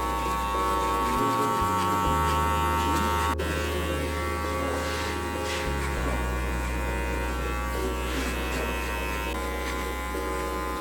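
Electric hair clippers buzzing steadily through a haircut.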